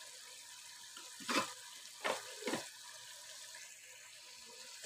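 Mutton and spices frying in ghee in an aluminium pot, a faint steady sizzle, with three short scrapes of a steel ladle stirring the pot between about one and two and a half seconds in.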